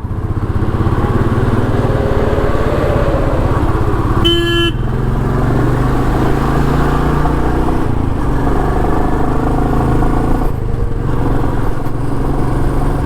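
Royal Enfield Meteor 350's single-cylinder engine running steadily while riding at speed, with a short vehicle horn blast about four seconds in.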